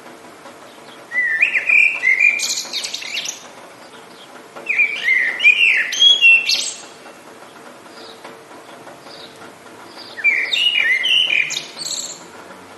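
A songbird singing three short, lively phrases of about two seconds each, a few seconds apart, over a steady faint background hiss.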